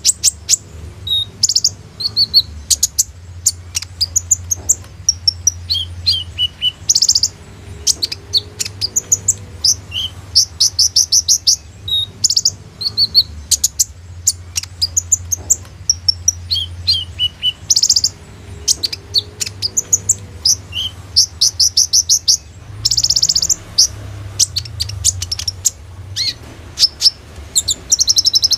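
Kolibri ninja sunbird singing vigorously in rapid high chirps, quick trills and short sharp bursts, its song packed with mimicked phrases. A low steady hum runs underneath.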